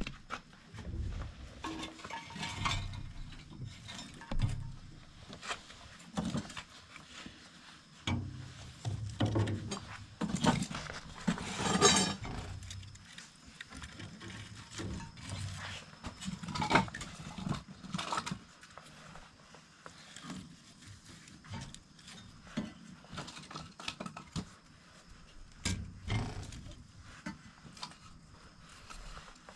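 Wood fire crackling, with irregular pops and snaps and low rumbling surges of the flames, busiest about ten to twelve seconds in.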